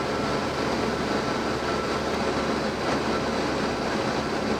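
Steady cabin drone of a Cessna 172M in flight: its four-cylinder Lycoming O-320 engine and propeller running evenly, with airflow noise, heard from inside the cockpit.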